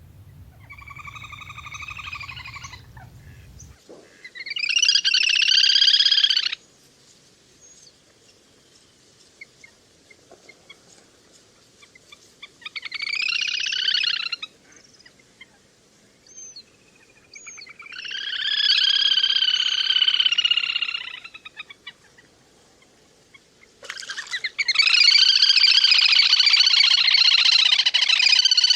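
Little grebe calling in long trilling bursts, five in all, each lasting two to four seconds with pauses between. A low hum sits under the first burst.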